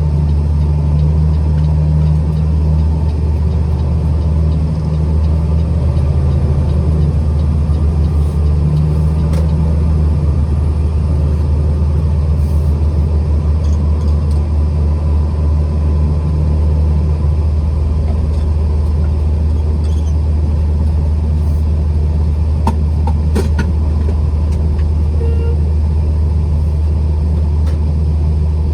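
Truck driving along: a steady, loud low engine and road rumble that holds unchanged throughout.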